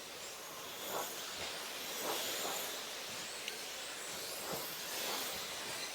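Radio-controlled off-road racing trucks running on the track: a faint high whine and hiss from their motors and tyres, swelling a little as trucks pass about a second in, around two seconds and again near the end.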